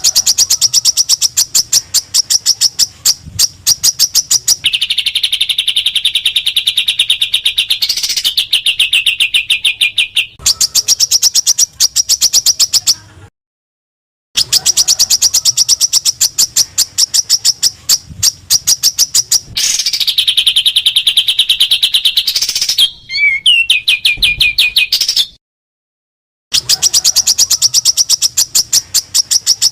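Small songbird calling in a fast run of sharp repeated chip notes, alternating with stretches of a lower, buzzy trill. This is a looped 'tembakan' bird-song training recording (masteran), with two abrupt silent gaps of about a second where the recording restarts.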